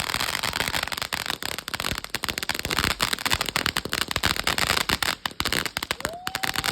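Exodus firework cake by Cutting Edge Fireworks firing: dense, rapid crackling pops with no let-up. A short whistle-like tone sounds near the end.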